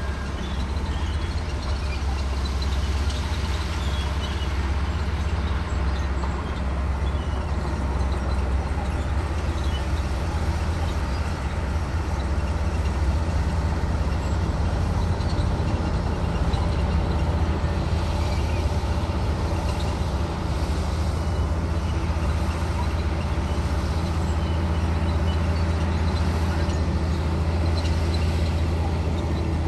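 Komatsu D58E bulldozer's diesel engine running steadily under load with a deep, even drone.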